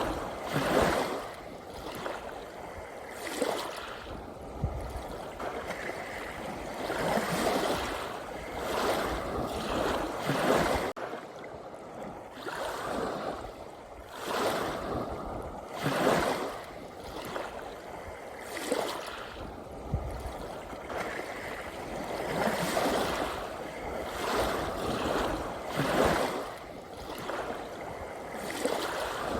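Ocean waves washing in, swelling and falling back every few seconds in an irregular rhythm.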